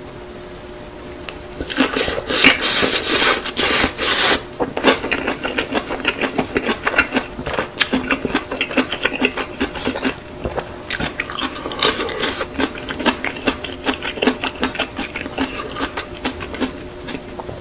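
Close-miked eating of a kimchi-wrapped roll of spicy stir-fried noodles: a few loud crunchy bites about two seconds in, then steady wet chewing with many small clicks that fades near the end.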